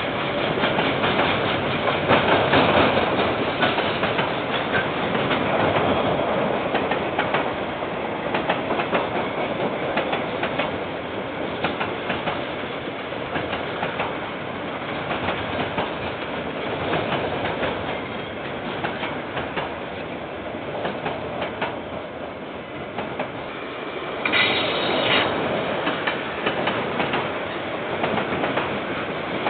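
KiwiRail train rolling past, its wagons' wheels clattering steadily over the rail joints, with a brief high-pitched squeal near the end.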